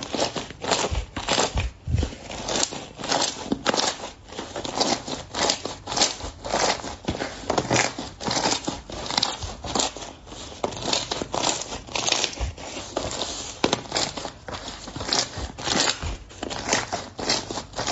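Slime being squeezed and pressed by hand close to the microphone, giving a rapid, uneven run of small clicks and pops.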